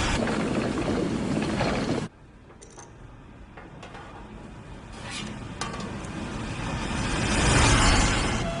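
Mechanical sound effects from an animated film: a loud, dense machine rumble that cuts off suddenly about two seconds in, then a few sharp clicks over a quieter background, and a low rumble that swells again toward the end.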